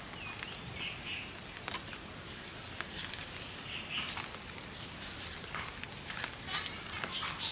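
Insect chirping in a high, even pulse, about once a second. Sharp clicks come now and then, along with a few short, faint chirps lower in pitch.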